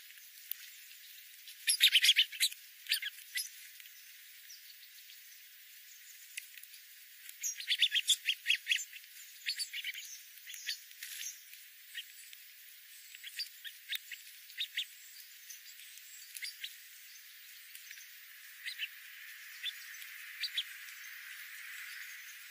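Bird calls: clusters of short, high, rapid chirps, the loudest runs about two seconds in and again around eight seconds, with scattered single chirps after.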